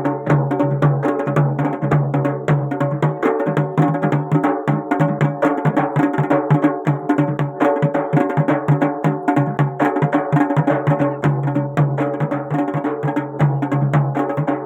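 Garhwali jagar folk music: fast, dense drumming over a steady, held melodic line. The held tone drops out for a few seconds midway, leaving the drums alone.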